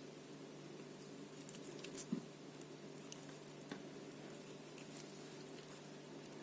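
Faint soft squishing and a few light clicks of a knife slicing a raw chicken breast open, over a faint steady hum.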